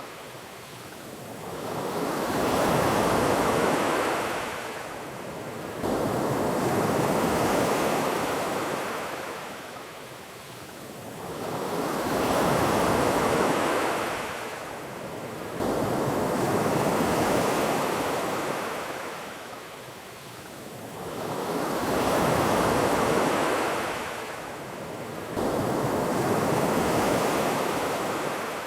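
Ocean surf: waves washing in and drawing back, swelling and fading about every four to five seconds.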